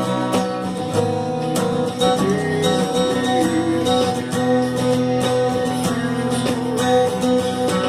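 Giannini Performance acoustic guitar playing chords, with notes picked and strummed in a steady run.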